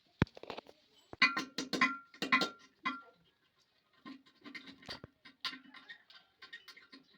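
Hard objects being handled during plumbing work: a sharp click, then a run of scraping and clinking knocks with brief ringing, and more scattered scrapes later on.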